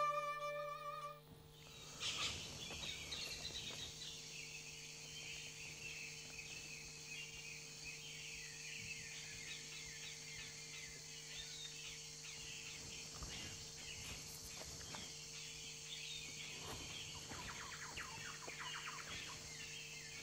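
Background music fades out about a second in, leaving faint birds chirping over a steady low hum.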